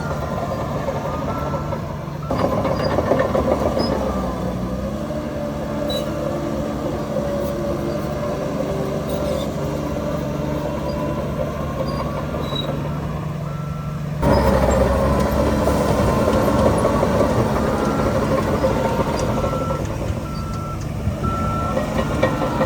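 Diesel engines of heavy earthmoving machinery working, with a reverse alarm giving short, evenly pitched beeps at intervals. The engine noise grows louder about two seconds in and again about two thirds of the way through, as the machine takes load.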